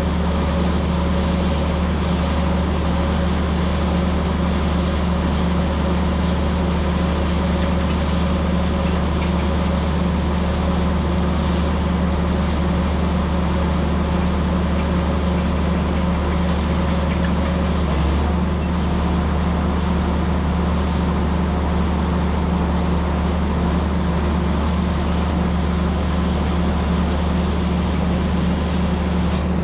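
A vehicle engine running steadily at constant speed, a loud unbroken low drone with no change in pitch.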